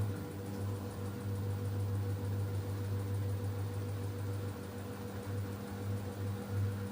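LG F10B8MD front-loading washing machine running on its 1150 rpm final spin programme: a steady low mechanical hum. The owner reports the machine stays steady and its bearings are sound.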